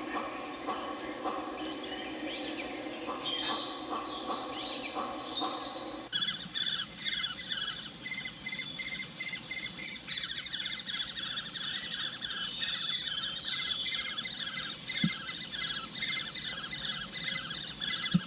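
Small birds chirping. The calls are sparse over a low murmur at first, then about six seconds in they change abruptly to a dense, fast run of repeated high chirps, as from a flock.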